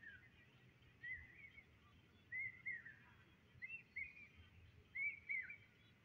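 A bird calling over and over, short phrases of two or three rising-and-falling notes, about one phrase a second, over faint outdoor background noise.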